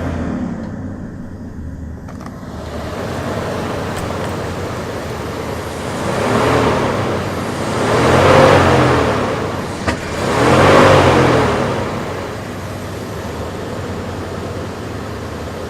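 2001 Dodge Ram 1500's engine running at idle, revved up and back down three times in the middle, each rev rising and falling in pitch. The truck is running on a newly replaced fuel pump.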